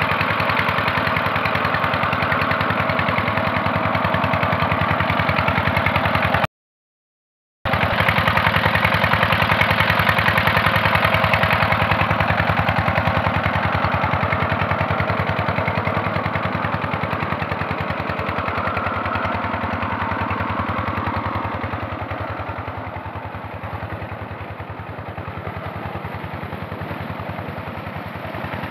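Diesel engine of a tubewell pump running steadily with an even, rapid firing beat. The sound cuts out completely for about a second near the start, then the engine carries on and grows a little quieter in the second half.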